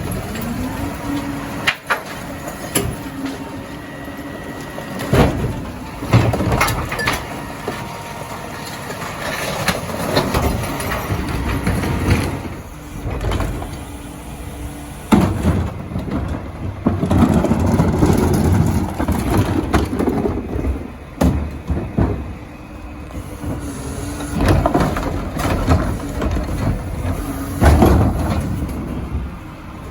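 Heil Dura-Pack 5000 rear-loader recycling truck at work: its engine runs and swells in loud spells, with repeated sharp knocks and clatter of carts being tipped and recyclables dropping into the hopper.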